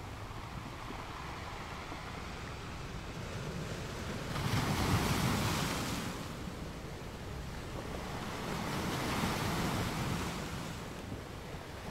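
Surf breaking and washing up a sandy beach. Two waves swell up and fade, the first about four seconds in and the second about nine seconds in.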